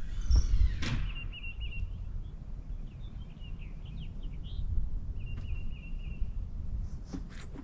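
Small songbirds chirping in short, repeated trilled phrases over a steady low rumble of outdoor background noise, with a louder sound in the first second.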